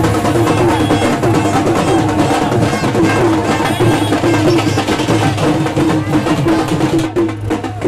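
Live procession music: drums beating a fast, busy rhythm under a short melody that repeats over and over, with a steady low drone beneath.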